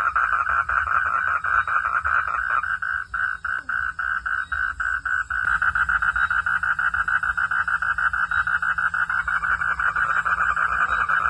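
Frogs calling at night in a chorus of rapid pulsing trills. A few seconds in, the chorus thins to a slower run of separate pulses, then becomes dense again. A low steady rumble lies underneath.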